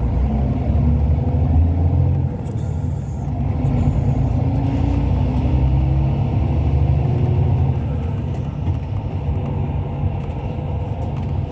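Inside a moving Hyundai Universe coach: steady low engine and road rumble, with a faint whine rising in pitch from about two to seven seconds in as the bus picks up speed.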